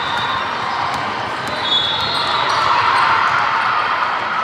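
Basketball game sounds in a gym: a steady hubbub of players' and spectators' voices, with short sneaker squeaks near the middle and the ball bouncing. The noise swells about two to three seconds in.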